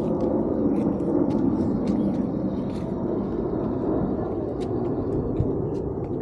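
Steady low rumbling outdoor noise with faint scattered clicks.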